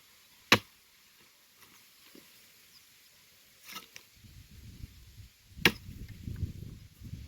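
Blows of a cutting tool chopping into firewood: three sharp strikes, the first and last loudest, with low rustling and knocking of branches in the second half.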